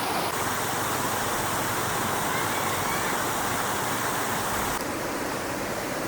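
Stream water rushing steadily over rocks. Its hiss brightens about half a second in and dulls again near five seconds.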